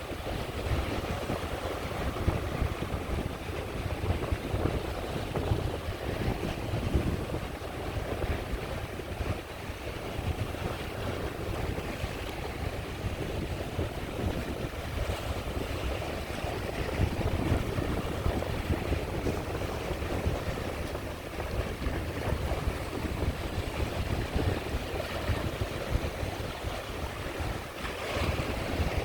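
Sea waves washing onto the shore in a steady surf, with wind buffeting the microphone.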